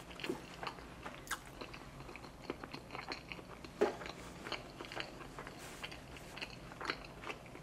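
Close-miked chewing of a mouthful of food: a string of irregular wet mouth clicks, with one louder click about four seconds in.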